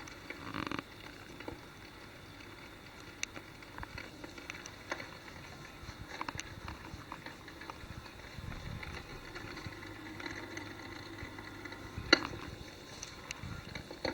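Wood fire burning in a homemade fireplace: soft irregular crackling with scattered small pops and one sharp crack about twelve seconds in.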